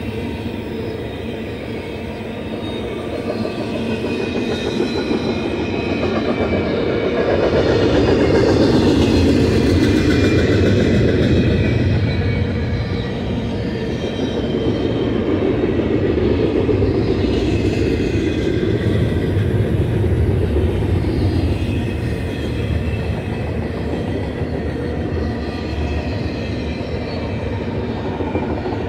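Double-stack container well cars of a freight train rolling past: a continuous rumble and clatter of steel wheels on the rails, loudest about a third of the way through, with faint high whining tones from the wheels running through it.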